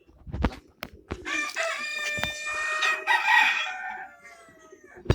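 A rooster crowing: one long crow of about three seconds, starting a second or so in and sliding down in pitch at the end. A low thump comes just before it.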